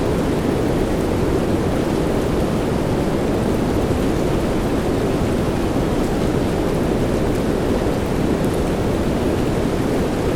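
Steady soft rain: an even, dense hiss that sits low in pitch, with no single drops or claps standing out.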